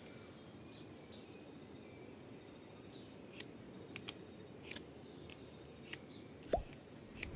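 Knife spine scraped down a ferrocerium rod, about a dozen short rasping strikes at irregular intervals, throwing sparks at a tinder nest to light it.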